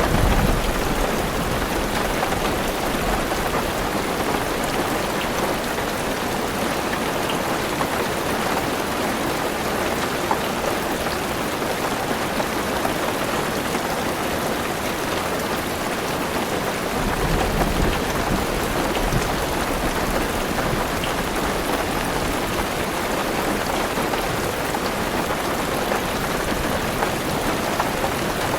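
Heavy rain on a car roof: a steady, dense patter. Low thunder rumbles in at the very start and again a little past halfway.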